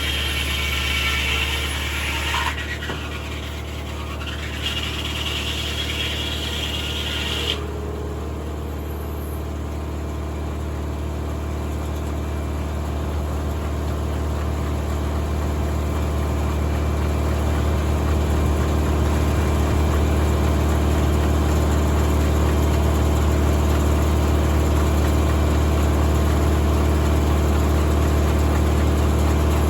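Tractor-driven 1950 Corley circular sawmill running, with the tractor engine's steady hum underneath. A higher whine over the hum stops abruptly about seven seconds in. The engine sound then grows louder over the next ten seconds and holds steady.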